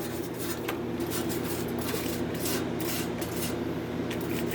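Gasless flux-core wire welder arc crackling steadily on steel flat bar over a low hum. The even crackle is the sign of a clean, well-prepared weld joint.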